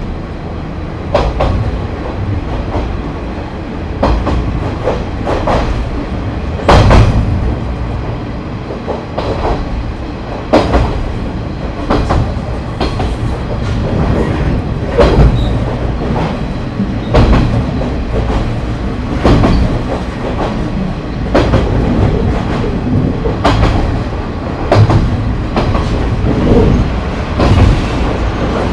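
JNR KiHa 30 diesel railcar running along the line, a steady low rumble of engine and wheels. Its wheels click over rail joints every second or two.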